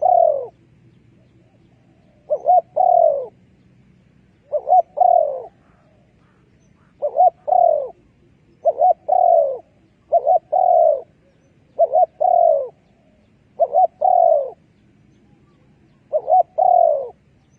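Spotted dove cooing: a phrase of two short coos followed by a longer coo that slides down in pitch, repeated over and over about every two seconds.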